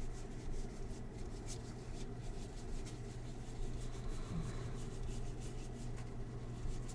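Trading cards being handled, with faint rubbing and a few soft clicks as cards slide against one another, over a low steady hum.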